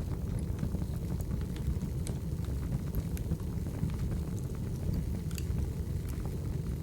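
Wood fire burning: a steady low rumble of flames with scattered sharp crackles and pops at irregular moments, a couple of them stronger about two and five seconds in.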